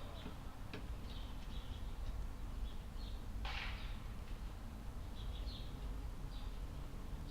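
Budgerigars chirping and chattering softly in short, repeated chirps, with one brief louder rasping burst about three and a half seconds in, over a steady low rumble.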